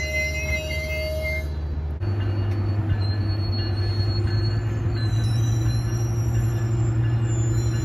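Metrolink commuter train pulling out of the station: a steady low drone from the train's running gear and diesel power, with faint high wheel squeal in the first second or so. About two seconds in, the drone steps up in pitch and gets louder.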